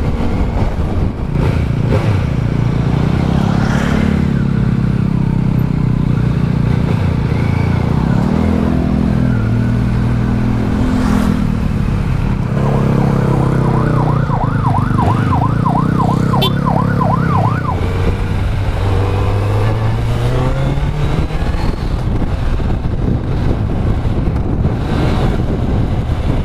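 Kawasaki Z900's inline-four engine running under way, its pitch rising and falling with the throttle. For about five seconds past the middle, a fast yelping siren wails over it.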